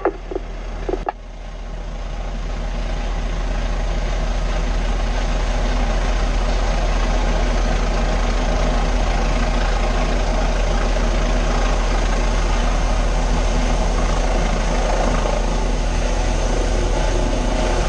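A fire engine's Cummins L9 diesel running steadily with a deep hum. The sound dips briefly about a second in, then swells back up over the next couple of seconds.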